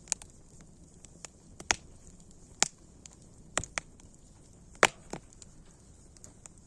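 Wood fire crackling: sharp pops at irregular moments, several of them loud, with small ticks between, over a faint steady hiss.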